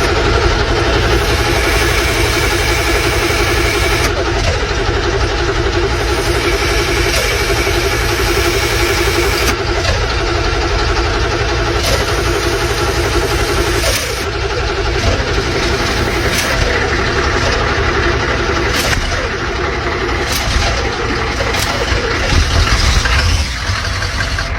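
A vehicle engine idling loud and steady just after a cold start, still warming up.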